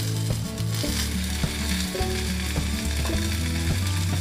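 Three cups chicken sizzling in a hot clay pot, its sauce bubbling with a steady crackling hiss. Background music with a stepping bass line plays underneath.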